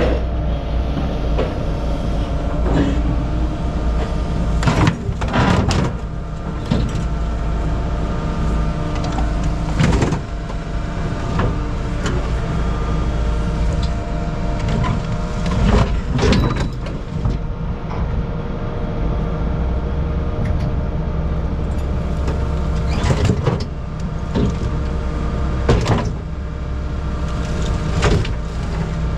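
A heavy machine's engine running steadily, with scrap metal clanking and banging now and then, the sharpest bangs near 5, 10, 16, 23 and 26 seconds in.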